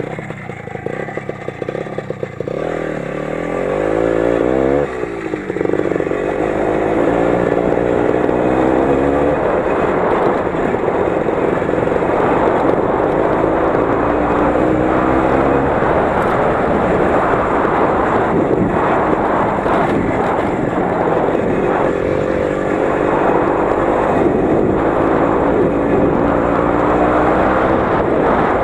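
Lider 3.221 20 hp motorcycle engine running while riding. The revs climb and fall in the first few seconds, then it runs steadily with slow rises and dips in pitch.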